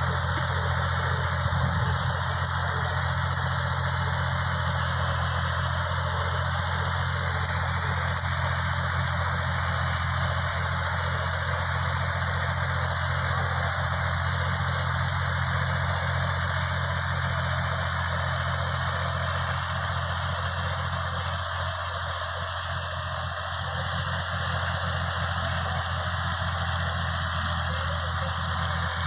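Tractor engine running steadily at idle, a constant low hum.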